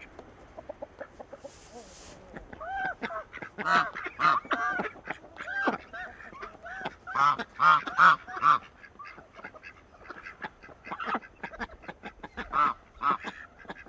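Flock of domestic ducks calling: many short quacking calls, thickest from about three to nine seconds in, then scattered.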